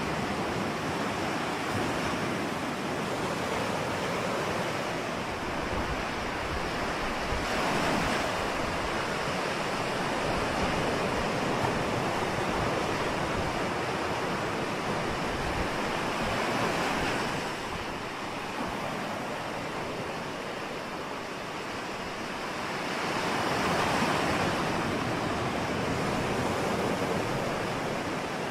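Ocean waves washing in on the shore, a steady surf noise that swells as waves break about three times, with some wind buffeting the microphone.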